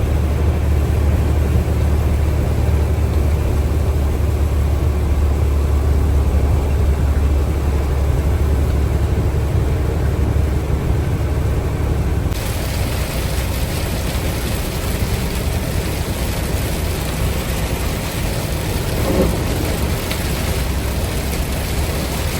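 Steady low rumble of a truck driving, with engine and road noise heard from the cab; a hiss of wet-road and rain noise becomes suddenly louder about halfway through.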